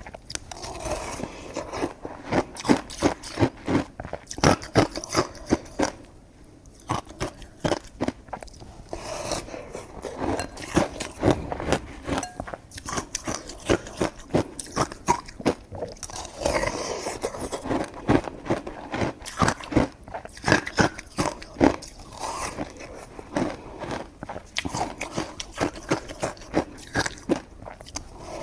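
Close-miked chewing of sticky coconut rice cake: a rapid, continuous run of wet mouth smacks and clicks, with a brief lull about six seconds in.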